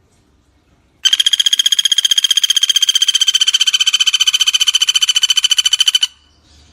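Pelatuk bawang (common flameback woodpecker) giving a long rattling trill: an even run of rapid notes, about a dozen a second and steady in pitch, starting about a second in and stopping sharply about five seconds later.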